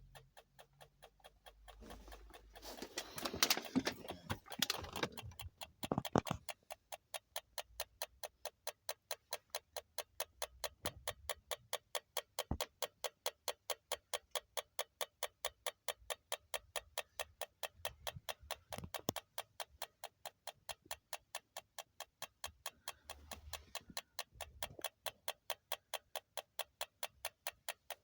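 Rapid, regular ticking, several ticks a second, from a Toyota Alphard after its engine has been switched off. A few seconds in, a louder stretch of rustling and knocks sits over the ticking.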